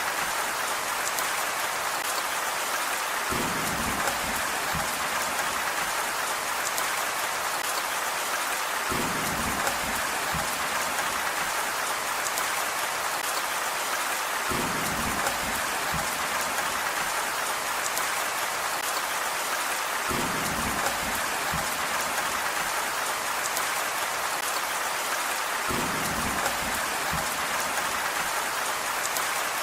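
Steady rain falling on a surface, an even hiss of many drops, with a brief low swell about every five and a half seconds.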